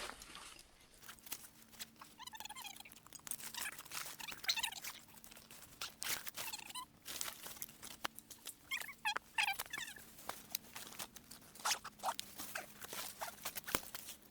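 Crinkling and rustling of camping gear being packed up, many small irregular crackles, with several short bursts of quick high chirping calls.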